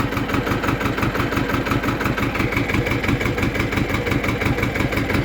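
Xingtai 220 tractor's diesel engine running steadily with an even pulsing beat. It is running at working temperature, with the temperature reading practically cold and the oil pressure holding.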